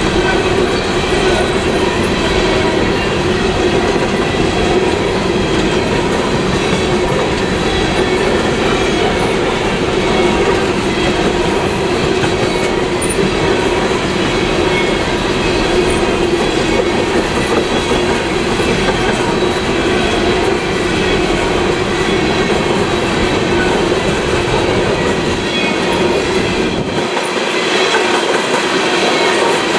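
Freight train rolling past at steady speed, a continuous loud run of cars on the rails with steady ringing tones over the noise. The deep low rumble drops away about three seconds before the end.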